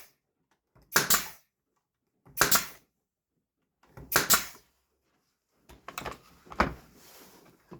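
Four sharp, hissing shots, one to two seconds apart, from a tool fastening the pieces of a wooden garden gnome together.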